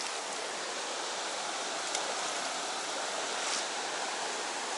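Creek water running steadily, an even rushing hiss with a couple of faint light ticks.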